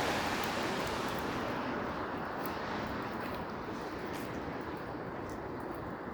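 Street traffic on wet pavement: a steady hiss of car tyres on the rain-wet road that slowly fades as a vehicle moves away.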